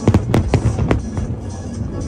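Aerial firework shells bursting in several sharp bangs at uneven intervals, with music playing underneath.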